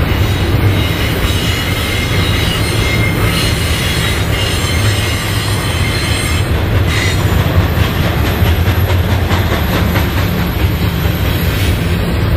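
BNSF double-stack container cars rolling past as the stack train climbs the grade: a steady heavy rumble of wheels on rail, with a faint high wheel squeal on the curve.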